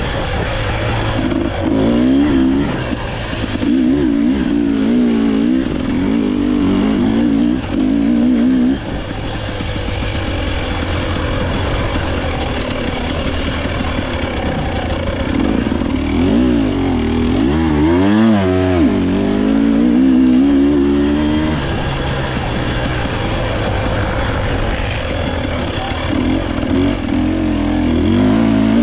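Dirt bike engine running hard, its revs rising and falling continually, with a quick drop and climb in revs about eighteen seconds in.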